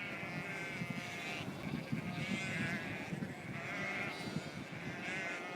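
A flock of sheep bleating continuously, many voices overlapping and calling back and forth.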